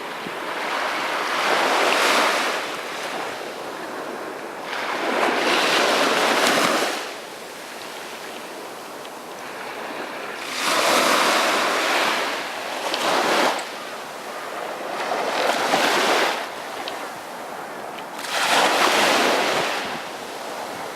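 Sea waves breaking on a beach: five loud washes of surf, each swelling and falling away over a couple of seconds, about every four to five seconds.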